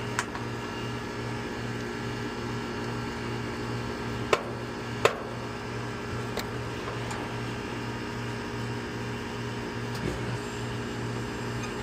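Steady hum of neighbouring air-conditioning units running, with a low pulsing drone, broken by a few sharp clicks of wire terminals being handled on a capacitor, the loudest two about four and five seconds in.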